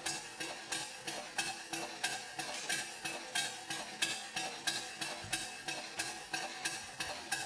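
Live-steam model traction engine running, its exhaust giving a steady train of sharp, hissing chuffs, about three a second.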